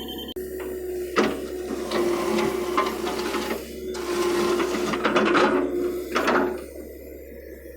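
John Deere excavator's engine and hydraulics running as it works, with a steady whine underneath and the noise swelling louder and easing off several times as the load changes.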